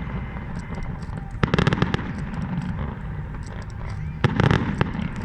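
Aerial fireworks display: two dense volleys of rapid bangs and crackles, about a second and a half in and again near the end, over a steady low rumble of shells bursting.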